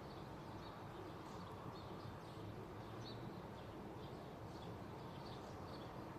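Small birds chirping, many short faint chirps in quick succession, over a steady low background rumble.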